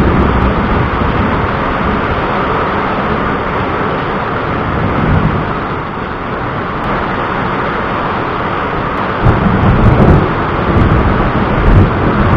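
Thunderstorm: rolling thunder over a steady hiss of rain, with heavier low rumbles near the start and again about nine seconds in.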